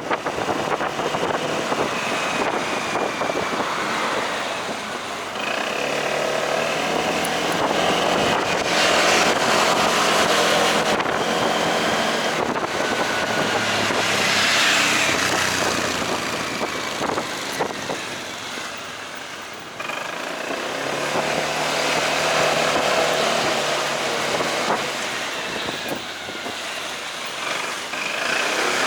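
Delivery motorcycle engine running while riding, with wind and traffic noise. The engine note grows louder twice, about a quarter and about two-thirds of the way through.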